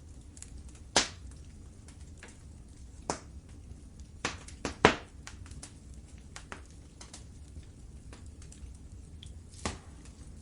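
Wood fire crackling in a fireplace: scattered sharp pops, a quick cluster of three about four to five seconds in, over a low steady rumble.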